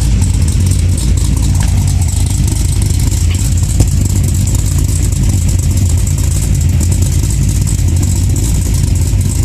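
Custom 2011 Camaro-based Z/TA's cammed engine idling steadily with a deep, even rumble.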